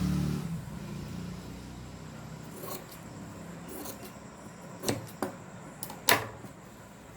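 Tailor's scissors cutting through two layers of blouse fabric, several sharp snips in the second half.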